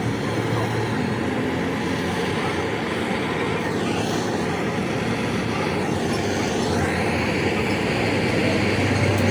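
Steady engine or machinery noise: a low hum under a broad rushing sound. About halfway through, two sweeps in the upper range fall and rise again.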